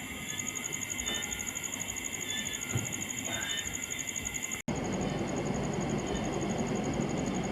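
Insects trilling in a fast, even pulse, high-pitched, with a few short chirps over it. After a cut about halfway through, a louder steady rushing noise joins the same trill.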